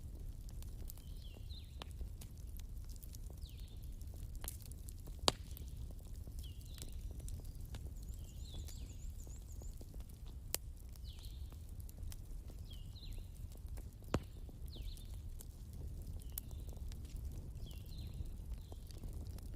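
Wood fire crackling with scattered sharp pops, three of them louder, over the low steady rush of a river. Short high chirps from a small animal repeat about once a second throughout.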